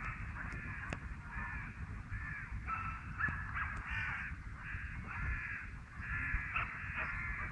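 A bird calling over and over in short calls of under half a second each, about a dozen of them with small gaps between, over a steady low rumble of wind on the microphone.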